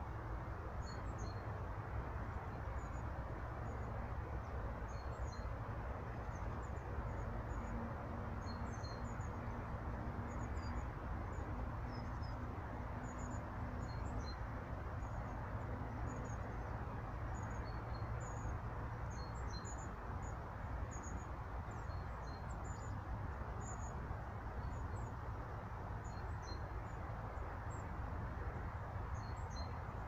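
Small birds calling in short, high-pitched chirps throughout, over a steady low rumble of background noise.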